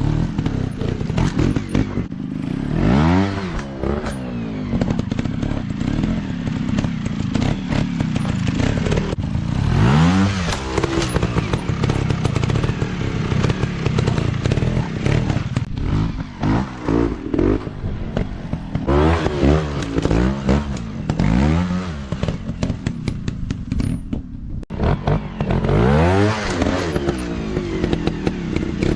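Dirt bike engines revving hard and easing off again and again, the pitch rising and falling every few seconds.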